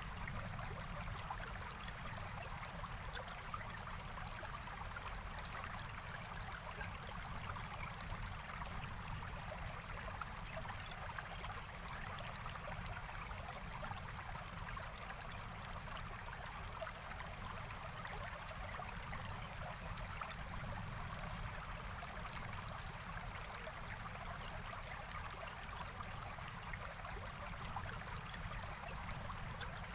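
A forest stream flowing steadily: an even, unbroken rush of running water.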